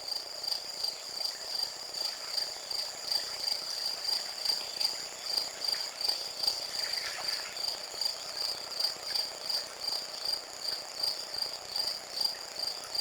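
Cricket chirping in a steady, even rhythm of high-pitched pulses.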